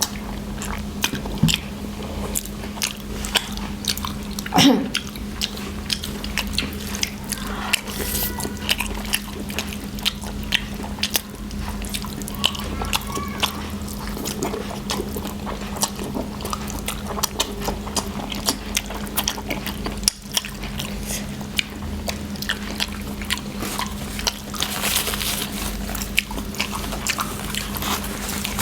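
Close-up chewing and biting of spicy noodles: many small wet mouth clicks and smacks, over a steady low hum. One short, louder mouth sound comes about five seconds in.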